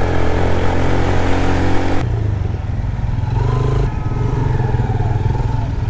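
Yamaha YBR 125G motorcycle's single-cylinder engine running while riding in traffic. About two seconds in the engine note changes abruptly to a lower, steady rumble.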